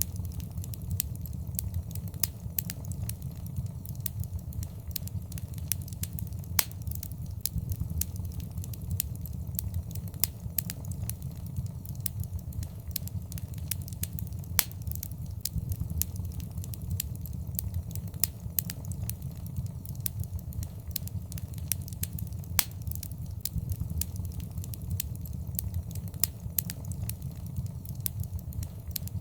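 Wood fire burning in a fireplace: a steady low rumble with irregular sharp crackles and pops, a few much louder than the rest.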